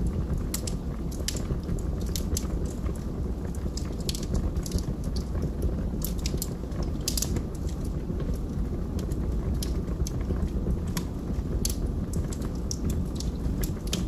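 Logs burning in a fireplace: a steady low rumble of flames with irregular sharp crackles and pops.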